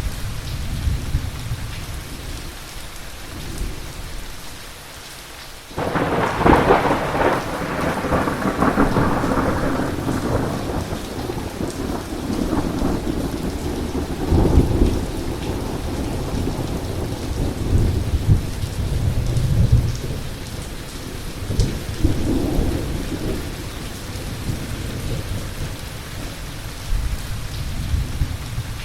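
Heavy thunderstorm: steady rain with a sudden close thunderclap about six seconds in that rolls on and fades over several seconds, followed by further lower rumbles of thunder.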